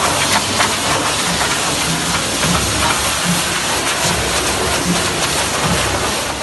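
Pressure washer spraying water, a loud, steady hiss.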